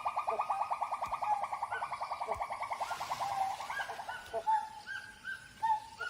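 Animal calls: a fast run of repeated notes, about ten a second and slowly falling in pitch, breaks after about four seconds into slower, separate rising-and-falling calls.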